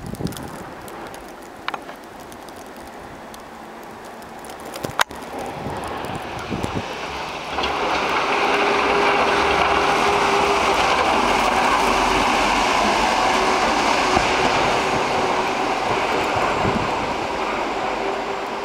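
A passing vehicle's steady rushing noise with a low hum sets in loudly about seven and a half seconds in and holds, after a quieter start broken by a few handling clicks.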